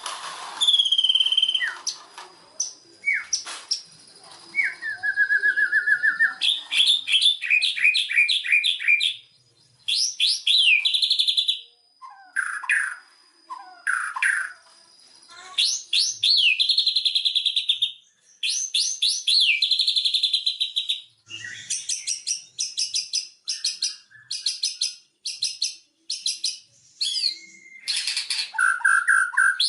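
White-rumped shama singing a loud, varied song of clear whistles, fast trills and quick runs of repeated notes, broken by short pauses; a full-voiced song of the kind played to prompt a silent shama to start singing.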